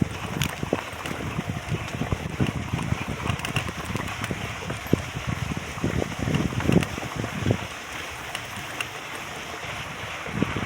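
Wind buffeting the microphone, with irregular knocks and crackles through it.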